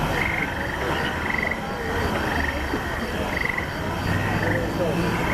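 Short trilled, frog-like croaks repeating about once a second, over a steady low rumble of street and crowd noise.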